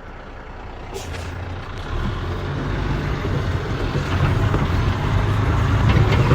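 Dump truck's diesel engine running under heavy load, growing steadily louder as the truck pushes through soft wet sand.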